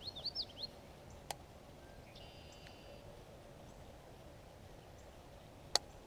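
A small bird singing a quick run of high chirps at the start, then quiet outdoor background with two sharp clicks, one about a second in and one near the end.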